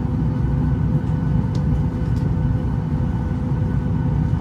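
Steady low cabin hum inside a Boeing 737-800, with a few faint constant tones over it.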